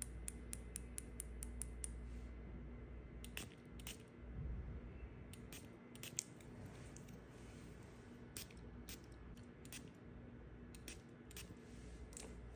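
Knife cutting dry soap: a run of small crisp clicks, about four a second in the first two seconds, then scattered single clicks.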